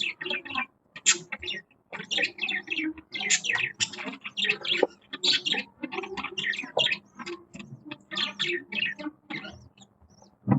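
Budgies (budgerigars) chirping and chattering in rapid, crowded runs of short calls with warbling between them.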